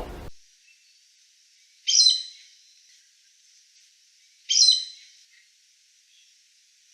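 A wild forest bird calling twice, about two and a half seconds apart, each call a short loud burst of several stacked notes. A different recording cuts off abruptly just after the start.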